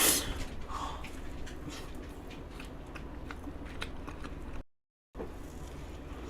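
Close-miked mouth sounds of someone eating a soft cream-filled cake: faint wet clicks and smacks of chewing, after a sharp noisy sound right at the start. The sound drops out to dead silence for about half a second near the end.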